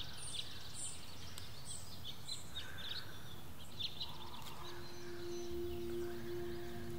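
Quiet outdoor ambience with small birds chirping in short, scattered calls. A steady low hum comes in about two-thirds of the way through.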